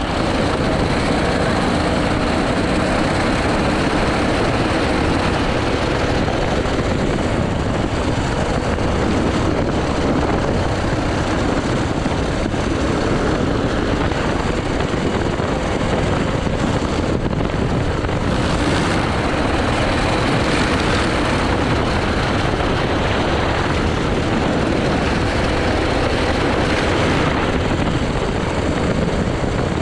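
80cc go-kart engine running flat out during a lap, a steady loud drone mixed with rushing noise.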